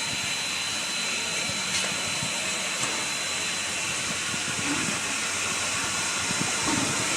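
Steam locomotive hissing steadily, with a thin high tone running through the hiss.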